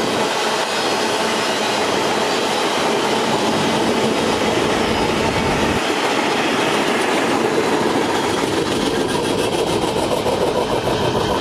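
Covered hopper cars of a freight grain train rolling past at reduced speed, their wheels clattering over the rails. The sound changes about two-thirds of the way in, as the last car goes by.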